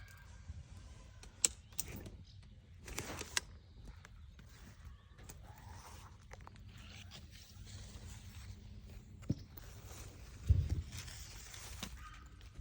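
Rustling and handling noise with scattered sharp clicks, and a low thump about ten and a half seconds in.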